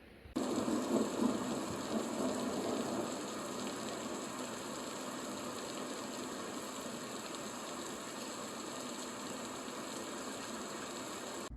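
Steady mechanical whir with a hiss, like a motor or fan running. It starts suddenly about half a second in, is loudest for the first few seconds, then holds level and cuts off abruptly at the end.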